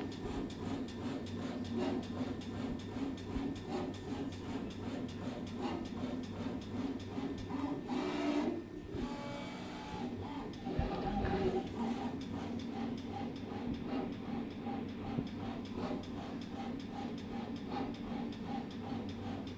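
Stepper motors of a desktop three-axis hot melt glue dispensing robot driving the glue head along its programmed path: a steady motor hum with rapid ticking, pausing briefly about eight seconds in before the moves resume.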